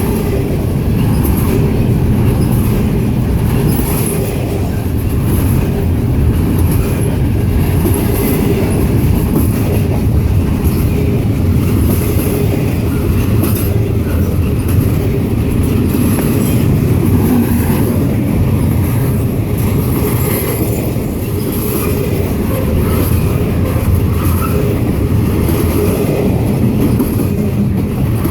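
Freight train cars rolling past steadily: a continuous low rumble of steel wheels on rail with faint, evenly repeating high ticks.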